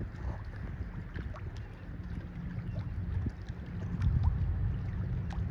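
Steady low rumble and constant low hum from a passing tanker ship, with wind buffeting the microphone and a few faint clicks.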